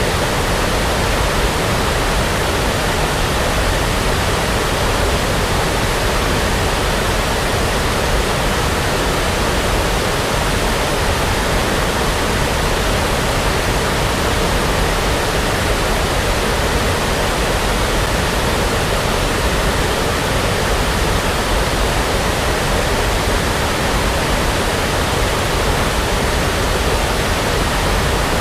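Brown noise: a steady, even rushing hiss with no change or events, like a distant waterfall.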